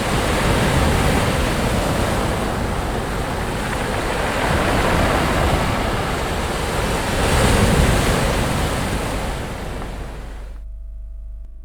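Sea waves washing onto a beach, a steady surf that swells a few times. Near the end the surf cuts off suddenly, leaving a brief low hum.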